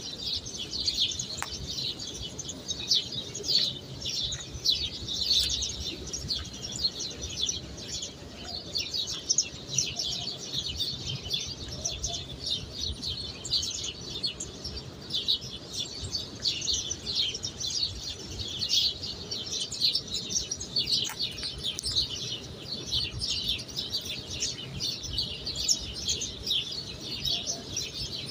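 Many small birds chirping without a break, a dense chatter of short high calls.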